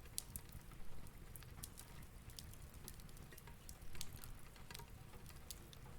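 Fireplace crackling: scattered, irregular soft pops and snaps over a faint low steady rumble.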